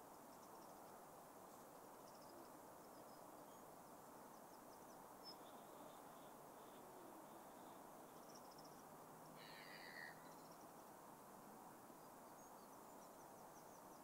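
Near silence: a faint steady background hiss with faint, scattered bird calls, one slightly clearer call about nine and a half seconds in.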